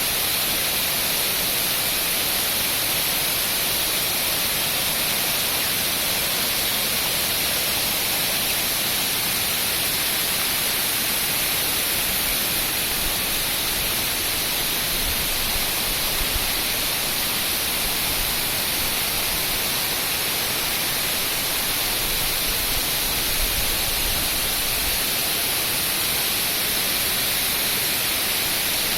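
Waterfall: water falling and splashing in a steady, even rush, with no letup.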